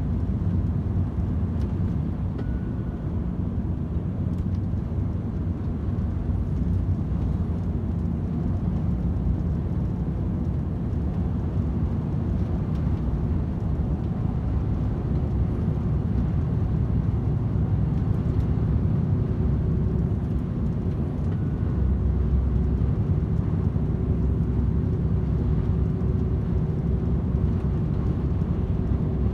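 DAF XF 510 lorry running steadily at motorway cruising speed: a constant low rumble of its PACCAR MX-13 six-cylinder diesel and tyre noise, with a faint steady hum above it.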